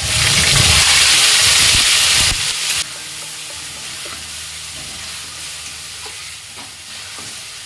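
Wet ginger, garlic and onion paste hitting hot mustard oil in a kadhai: a loud burst of sizzling for about two and a half seconds, which then drops to a steadier, quieter frying sizzle as the paste is stirred with a spatula.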